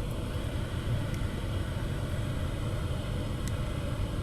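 Honda Odyssey RC2's 2.4-litre four-cylinder engine idling steadily on a cold start at −2 °C, with a low, even rumble. The owner finds this cold idle speed lower than other Odysseys', which idle cold at about 1200 rpm.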